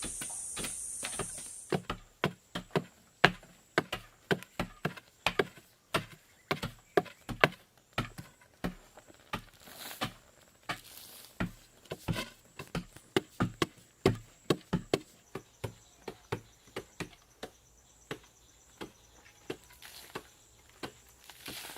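Hand tool chopping wood in quick repeated strokes, about two to three a second, thinning out to scattered strokes after about fifteen seconds. A steady high hiss stops about two seconds in.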